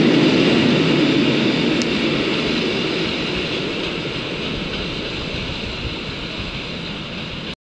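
Passenger train's coaches rolling away along the track, a steady rushing wheel-on-rail noise fading slowly as the train recedes, then cut off abruptly near the end.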